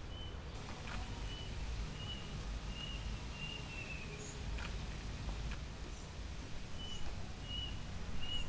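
A bird repeating a short high chirp about every half second, in two runs with a pause between them, over a steady low outdoor rumble, with a few faint clicks.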